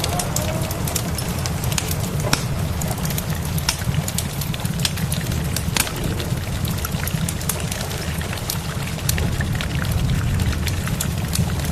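Steady rain with a deep low rumble, mixed with the sharp pops and crackles of a burning wood fire scattered throughout.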